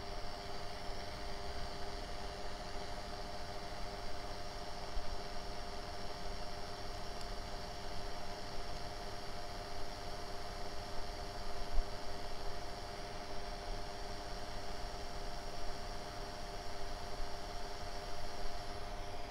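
Steady electrical hum over a faint background hiss, with a few faint low knocks.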